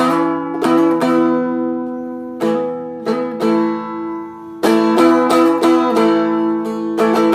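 Seagull Merlin, a four-string strumstick-style dulcimer, strummed with its low strings droning under ringing chords. The first few strums are spaced out and left to ring, then from a little past halfway it is strummed faster in a steady rhythm.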